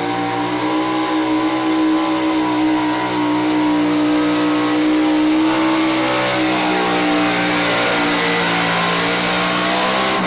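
Pro-street Chevrolet pickup engine held at steady high revs under full load as the truck pulls the sled. A hiss builds over the engine from about halfway through. At the very end the revs drop steeply as the driver lets off the throttle.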